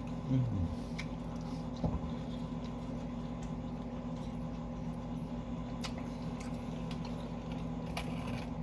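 Close-up chewing of pizza, with a few faint small mouth clicks over a steady low hum.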